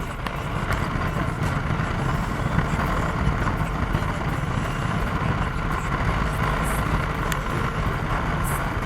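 Motorcycle running steadily on the road, a constant engine and road noise with no changes in pace.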